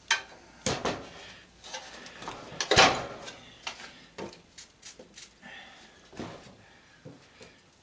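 Irregular metal clicks, knocks and short scrapes of a screwdriver working at a stuck screw that will not turn, with one louder knock about three seconds in.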